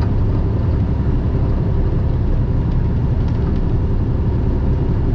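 Semi truck's diesel engine pulling steadily up a long highway grade with an empty trailer, heard from inside the cab as a steady low drone under road noise.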